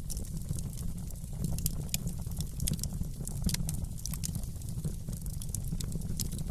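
Wood fire in a fireplace crackling: frequent irregular sharp pops and snaps over a steady low rumble of the burning fire.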